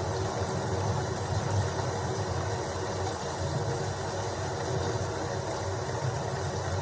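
Steady rain noise over a continuous low rumble.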